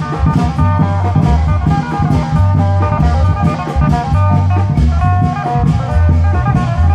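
Isan klong yao (long-drum) band playing a fast, steady rhythm with a plucked melody line over heavy drum beats.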